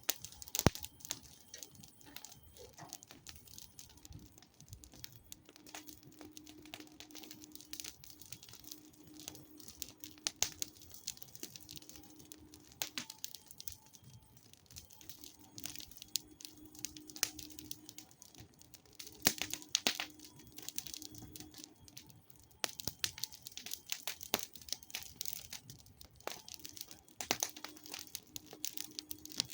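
Campfire crackling, with irregular sharp pops and snaps of burning wood, a few of them loud, and a faint low hum coming and going.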